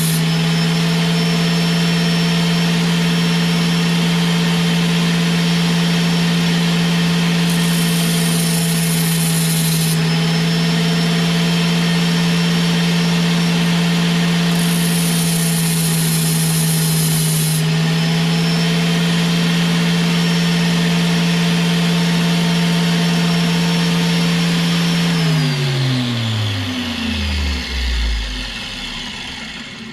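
An electric grinder running at a steady speed, with two spells of harsh grinding a few seconds each, the tone dipping slightly under load, as metal is ground off an injector tip to take away what is left of the cap. Near the end it is switched off and its pitch falls as it spins down.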